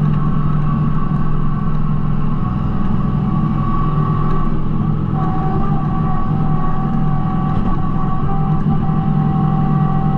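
Kubota B2650 compact tractor's diesel engine running steadily at working speed, with a steady mechanical whine over it; a second, lower whine comes in about halfway through.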